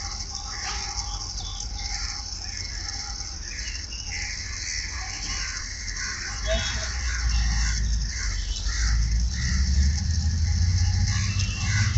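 Birds chirping, with a low rumble that grows louder about six and a half seconds in.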